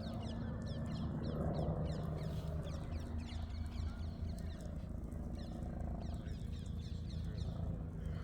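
Police helicopter droning steadily overhead, an even low drone, with birds twittering in short high chirps over it.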